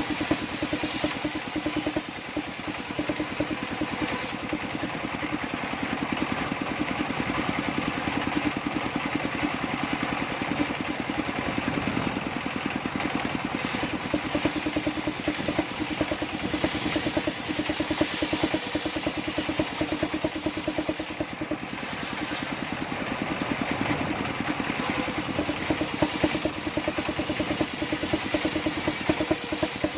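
Engine-driven table circular saw with a Pilana blade running steadily and cutting sengon timber: a fast, even engine pulse under a rasping saw noise that swells and eases as the wood feeds through.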